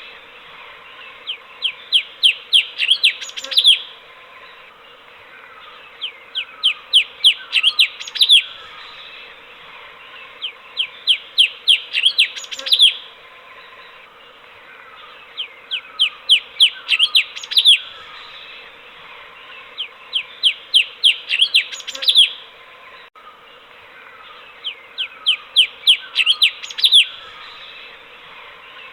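Cucak cungkok bulbul singing in repeated bursts of about eight to ten quick, sharp, falling notes. Each burst lasts two to three seconds and they come about every four to five seconds, over a steady background hiss.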